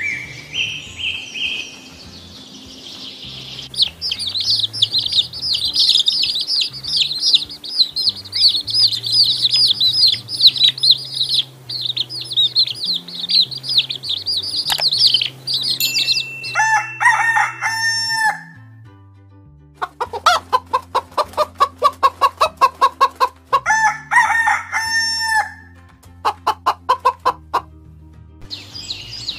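Domestic chickens: a flock of chicks peeping rapidly and continuously, then hens clucking in quick repeated runs from about the middle on.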